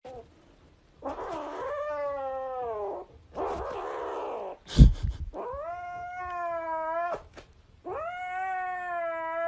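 Kitten giving long drawn-out meows, three calls of one and a half to two seconds each, the first falling in pitch and the later ones rising and then holding. A breathy, unpitched sound comes between them, and there is one sharp knock about five seconds in.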